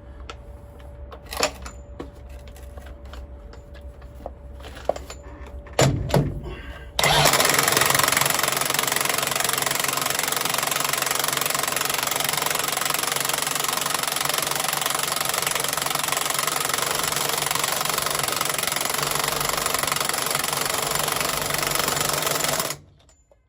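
A few knocks, then a loud, steady mechanical noise from a machine or air tool starts suddenly about seven seconds in. It runs evenly for about fifteen seconds, then cuts off abruptly.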